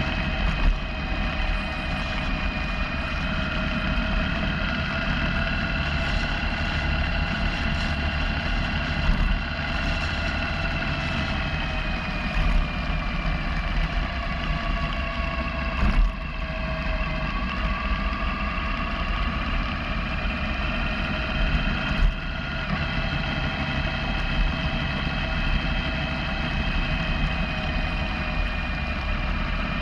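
Motorcycle engine running steadily while riding, its pitch easing down and rising again gently as the speed changes, over a low wind rumble, with a couple of brief knocks.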